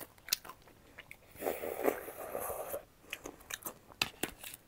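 Close-up chewing and crunching of a mouthful of chatpate, a crunchy puffed-rice snack mix: scattered sharp crunches, with a longer run of dense crunching about a second and a half in.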